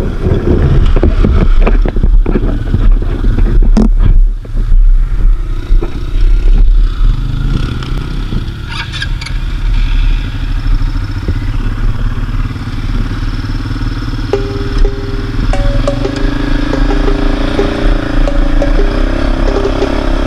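Quad bike (ATV) engine running while riding, with clattering knocks over rough ground in the first several seconds. A steadier, higher engine tone comes in about two-thirds of the way through.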